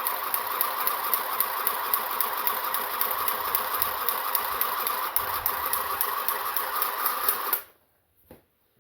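Handheld electric sewing machine running as it stitches a fabric hem, with a fast, even clicking, then stopping suddenly near the end; one small click follows.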